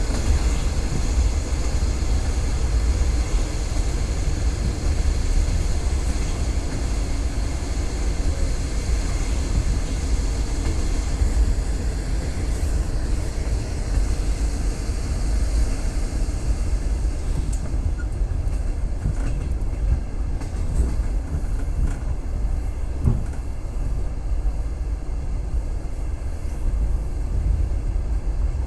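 Passenger train running, heard from inside a carriage: a steady low rumble of the wheels on the rails, with a few faint knocks past the middle.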